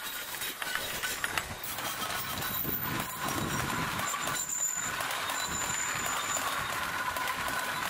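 Passenger train coaches rolling slowly along the track, their wheels clicking over the rails. About four seconds in, a steady high-pitched squeal from the running gear sets in.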